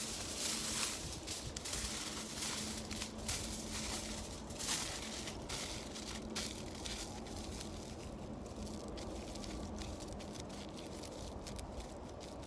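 Wood campfire crackling, with scattered sharp pops that come thicker in the first few seconds.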